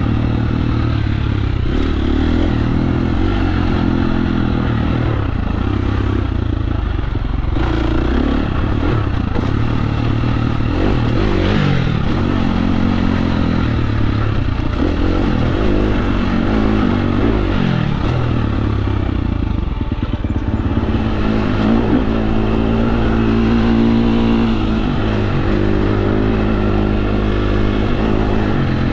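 KTM 350 SX-F dirt bike's four-stroke single-cylinder engine running under throttle on a trail ride. The revs rise and fall repeatedly through the middle and hold steadier near the end, with a few short knocks along the way.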